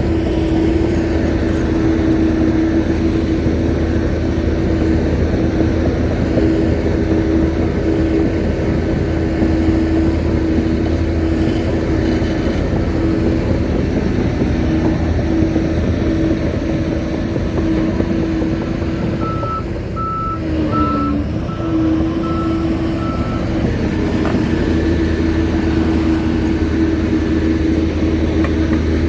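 Shantui bulldozer's diesel engine running steadily under load. About two-thirds in, the engine dips briefly while its reversing alarm beeps about twice a second for some four seconds, the sign that the dozer is backing up.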